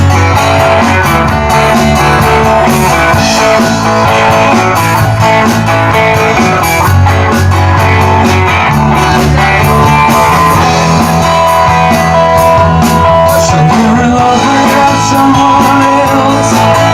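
Live rock band playing an instrumental intro, with guitars over a moving bass line, before the vocals come in.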